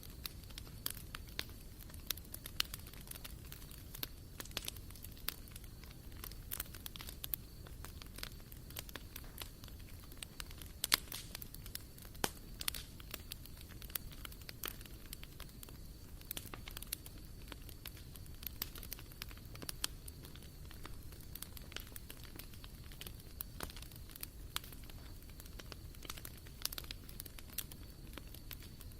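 Wood fire crackling in a barbecue grill, with irregular sharp pops and snaps over a low, steady rush of flame.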